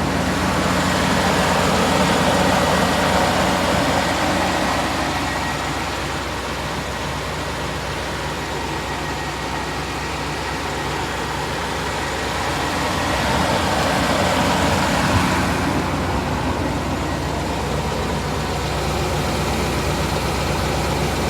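GMC Savana's 5.7-litre V8 idling steadily shortly after a cold start, with no clear tick yet; the owner is listening for a tick that usually develops after about a minute and which he suspects is a hydraulic lifter.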